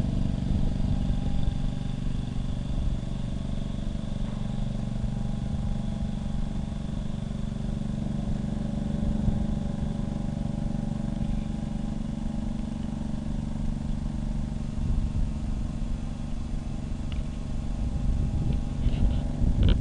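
An engine running steadily: a low, even drone with a faint high whine above it, unchanging throughout.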